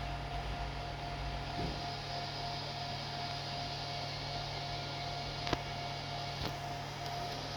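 Steady electrical hum and fan noise with a thin steady whine from powered CNC control equipment running on test. A single sharp click sounds about five and a half seconds in, and a fainter one a second later.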